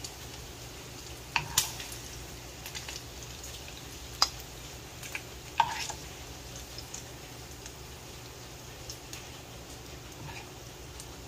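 A metal spoon clinking and scraping against a frying pan and a ceramic plate as pieces of cooked meat are lifted out. There are sharp clinks a little over a second in, about four seconds in and near six seconds, over a low steady background.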